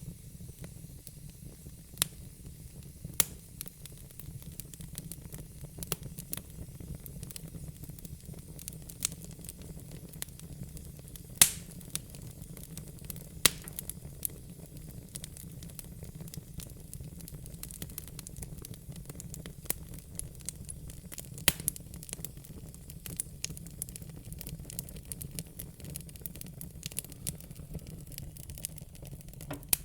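Wood fire crackling: irregular sharp pops and snaps over a steady low rumble, the loudest pops about eleven and thirteen seconds in.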